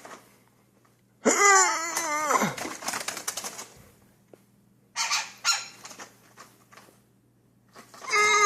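A woodpecker's wings flapping in short bursts as it flies about the room. A loud, drawn-out wavering cry comes about a second in, and a falling cry near the end.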